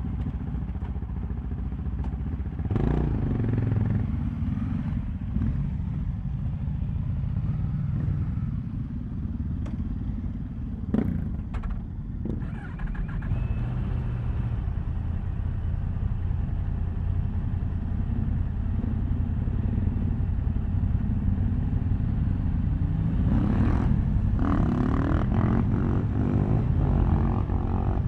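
Yamaha MT-10 SP's crossplane inline-four engine running under way. The revs rise about three seconds in and again near the end, with a couple of short clicks in between.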